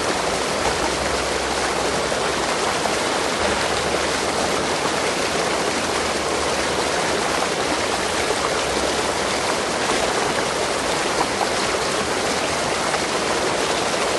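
Steady rushing of running water, like a stream flowing over rocks, even and unbroken throughout.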